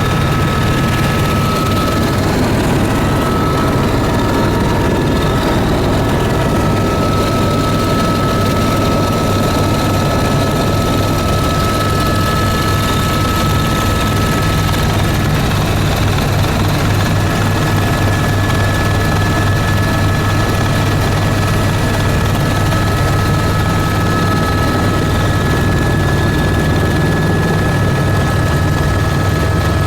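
Tour aircraft engines running steadily: a constant low drone with a thin, steady high whine above it.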